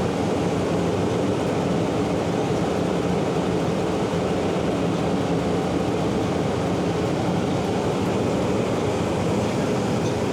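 Steady rumble of a moving city shuttle bus heard from inside the cabin: engine and road noise.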